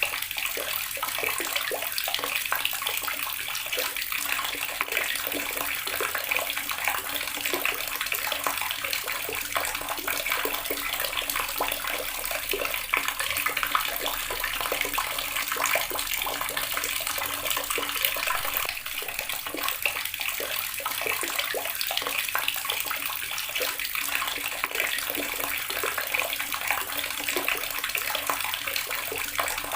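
Water running steadily from a tap and splashing into the water below, a constant even gush.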